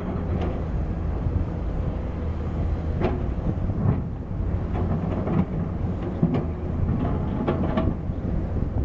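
Diesel heavy-equipment engine running steadily, with a few sharp knocks scattered through it.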